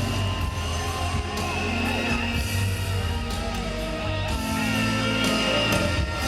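Live rock band playing an instrumental interlude of a ballad, a guitar line bending through the melody over steady bass and drums.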